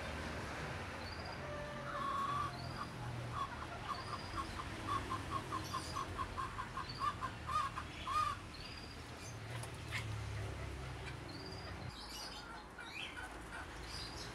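Birds calling: a rapid run of short, evenly spaced calls, about three a second, lasting several seconds before stopping. A short rising chirp recurs every second or two throughout.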